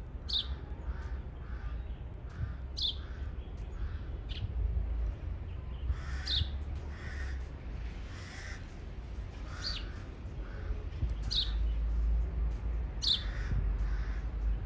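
Birds calling: high, sharp chirps that sweep downward, one every second or two, with lower, rougher calls in between.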